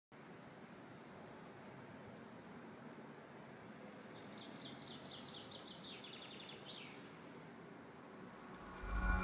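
Outdoor ambience: a steady hiss with a small bird singing two runs of quick, high, falling chirps, about a second in and again from about four to seven seconds in. Music fades in just before the end.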